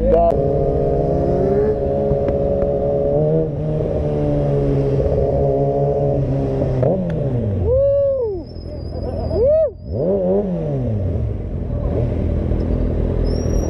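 Motorcycle engine running steadily, then revved up and back down twice in quick succession, about eight and ten seconds in.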